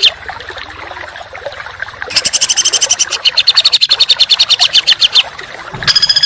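Recorded songbird 'tembakan' call: a rapid burst of sharp repeated notes, more than ten a second, lasting about three seconds after a quieter stretch. A different, steadier rapid trill cuts in near the end. It is a bird-song tutor track (masteran) used to teach caged songbirds dense, rough shots.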